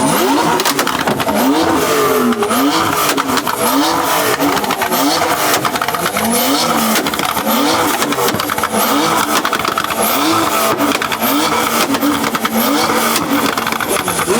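Car engine held on a two-step launch limiter and revved over and over, the pitch climbing and falling about once a second, with a rapid stream of sharp pops and bangs from the exhaust as it fires flames.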